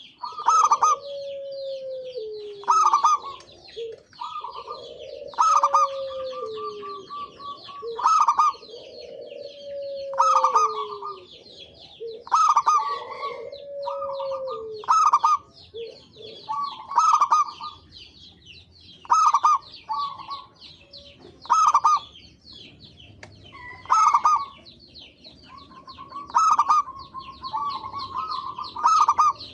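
Zebra doves (perkutut) cooing: short bursts of rapid cooing notes repeated about every two seconds. During the first half a lower, downward-sliding call comes in between the bursts.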